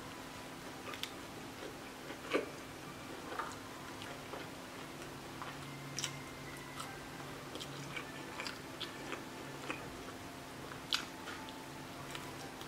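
Close-miked eating: biting into and chewing a spicy Korean fried chicken drumstick coated in stretchy melted cheese. Scattered sharp crunches and mouth clicks come through, the loudest about two seconds in and near the end, over a steady low hum.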